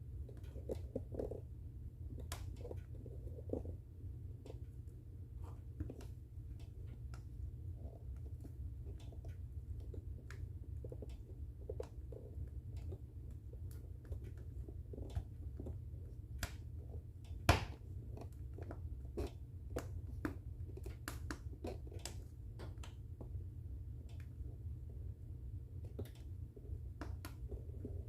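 Wood fire burning in a fireplace: irregular crackles and small pops over a low, steady rumble of the flames, with one loud pop a little past halfway.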